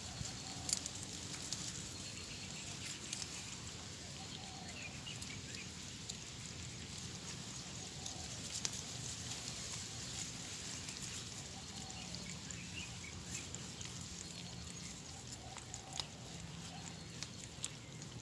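Outdoor background of a steady high hiss, with scattered small sharp clicks and a few faint short chirps.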